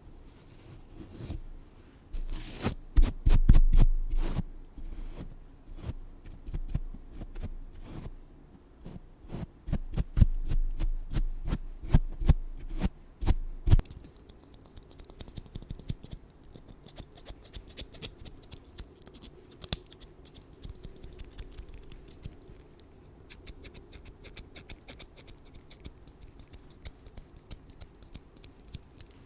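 Close scratching, brushing and clicking right at the microphone, dense with heavy thumps for the first half, then thinning to scattered small clicks about 14 seconds in. Crickets chirr steadily behind.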